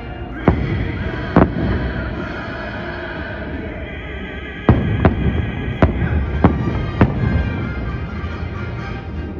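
Fireworks bursting in sharp bangs: two in the first second and a half, then a quick run of five from about halfway. Music plays throughout.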